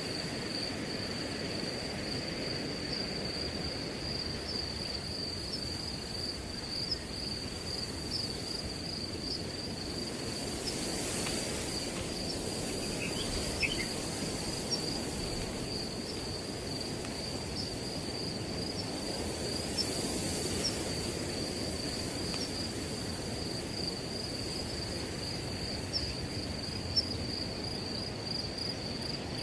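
Crickets trilling as one unbroken high tone, over wind rushing through grass that swells twice in gusts.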